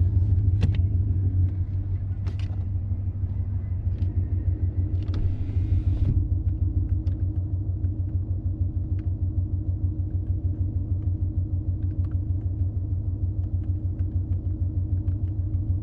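Ford Mustang GT's 5.0 V8 with full exhaust and headers idling: a steady, deep rumble with an even pulse, and a few faint clicks in the first several seconds.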